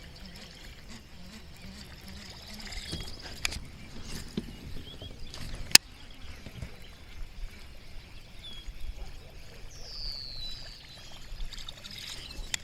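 Water trickling and lapping around a fishing kayak, with one sharp click about six seconds in and a short falling whistle near the end.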